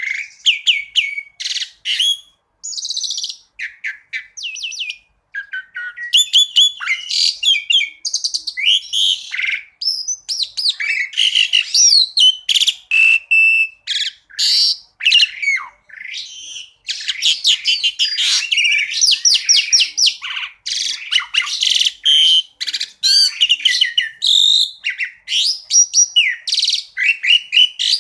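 Asian pied starling (jalak suren) singing a rapid, varied song: a dense run of whistled, gliding and chattering phrases with short pauses between them.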